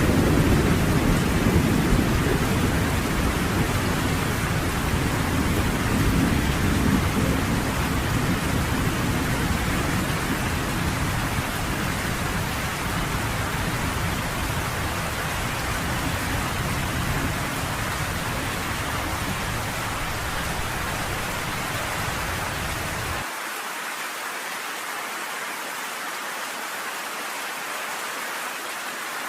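Steady heavy rain with a low thunder rumble that fades slowly and cuts off abruptly about 23 seconds in, leaving only the hiss of the rain.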